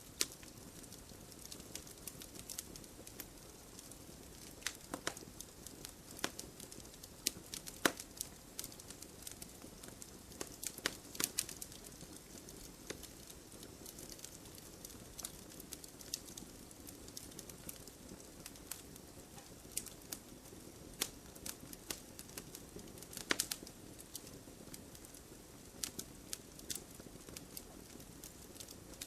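Wood fire in a fireplace crackling: irregular sharp pops and snaps from burning logs over a soft, steady hiss.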